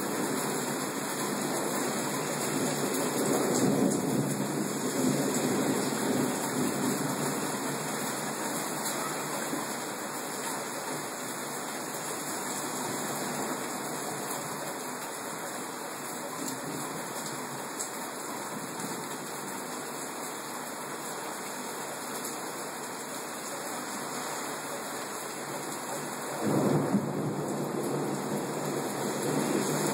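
Heavy rain pouring steadily, with thunder: a low rumble swells a few seconds in, and a sudden, louder thunderclap rolls near the end.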